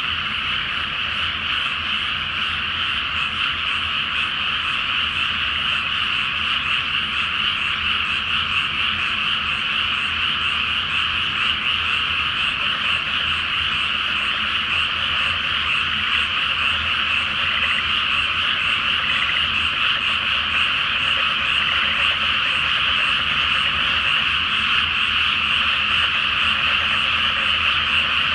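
Large chorus of frogs calling from a flooded rice paddy: many overlapping croaks blend into a dense, continuous, high-pitched din with no pauses.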